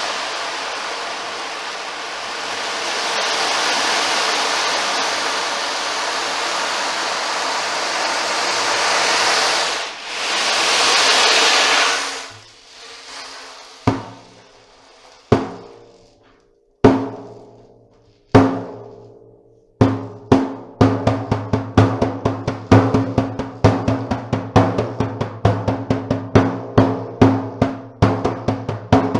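Ocean drum: the beads inside roll across the head in swelling and ebbing surges like surf for about twelve seconds. Then come four single strikes on the drumhead, each ringing and fading, and from about twenty seconds in a steady quick beat of roughly three strikes a second.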